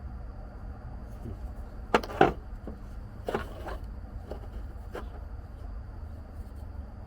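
A few sharp knocks and clicks of hand tools and parts being handled, the loudest pair about two seconds in, then two more and a lighter one around five seconds, over a steady low rumble.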